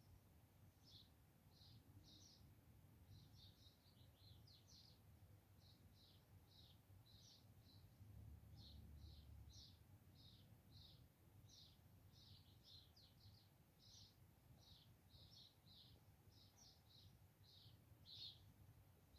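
Small songbird chirping steadily, a run of short high chirps about two to three a second, faint over a low background rumble.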